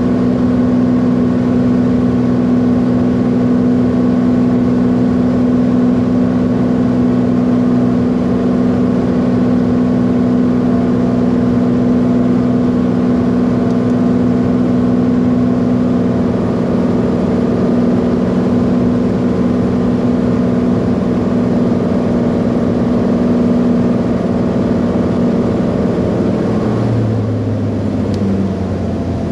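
Piston airplane engine droning steadily, heard from inside the cabin. About 27 seconds in its pitch drops as power is brought back.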